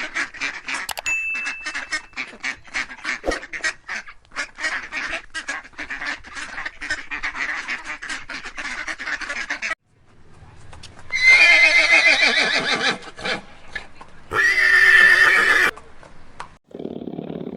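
Ducks quacking in a rapid run of short calls, then a horse whinnying twice. The whinnies are loud, with a wavering pitch that falls away.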